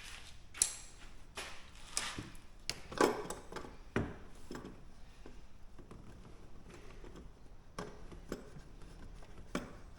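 Scattered clicks and knocks of hands handling parts and tools in an engine bay, the sharpest about half a second in and around three and four seconds in.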